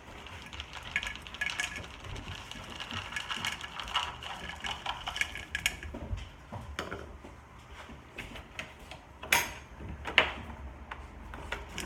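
Dog food being stirred in a bowl: dry kibble rattling while a utensil clinks and scrapes through it, with two sharper knocks near the end.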